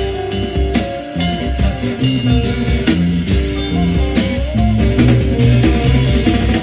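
A band playing rock music, with guitar and drums and a steady beat.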